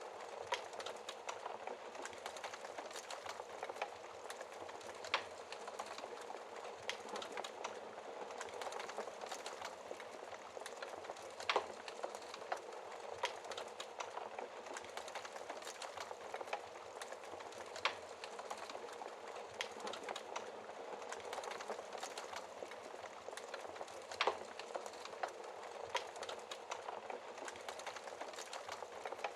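Wood fire crackling in a fireplace: a dense, steady crackle broken by sharp pops every few seconds, the loudest about eleven seconds in.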